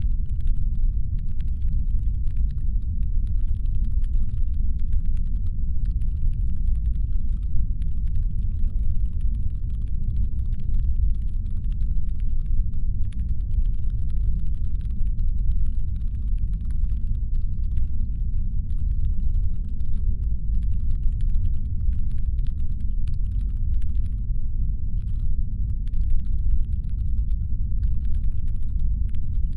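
Steady deep brown-noise rumble, a designed spaceship engine hum, with faint irregular clicking or crackling scattered over it.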